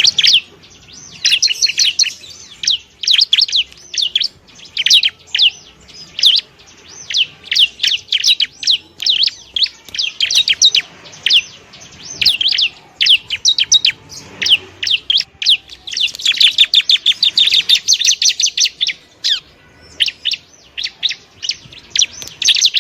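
Ciblek (bar-winged prinia) singing: phrases of quick, high, sweeping chirps separated by short pauses. A denser, faster run of notes comes about two-thirds of the way through.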